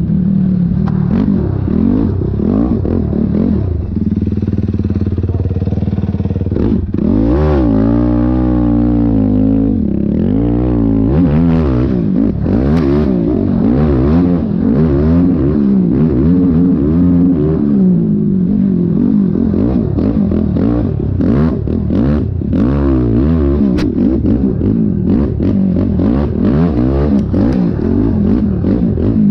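Yamaha YFZ450R quad's single-cylinder four-stroke engine revving up and down again and again as it is ridden hard over rough ground, with scattered sharp knocks and clatter.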